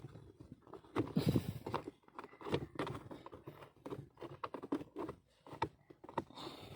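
Irregular clicks, knocks and scraping from taking apart the handbrake assembly of a car by hand, with a longer rustling scrape about a second in.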